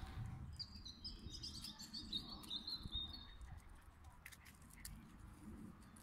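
Small birds chirping in a quick cluster of short high notes for about two and a half seconds, over a faint low outdoor rumble. A few light clicks follow.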